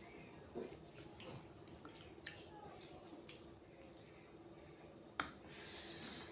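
Close-up eating sounds of rice and fried egg: soft wet lip smacks and mouth clicks while chewing, with a sharper click about five seconds in followed by a short breathy hiss.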